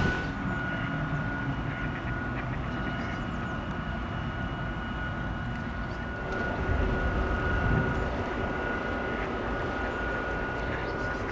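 Steady low rumble of the expedition cruise ship Hanseatic nature's engines and machinery as it passes, with a thin steady whine over it; the rumble swells briefly about seven seconds in.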